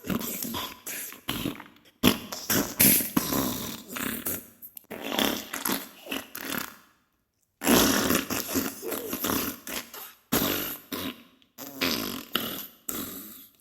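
Diarrhea sound effect: sputtering, splattering farts in irregular bursts, separated by brief pauses.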